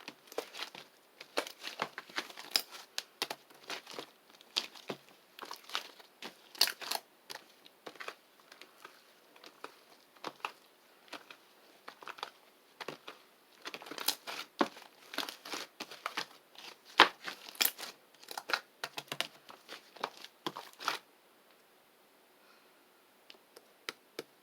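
Crinkling and crackling of something being handled, in dense irregular clicks that stop about 21 seconds in, with a few faint clicks near the end.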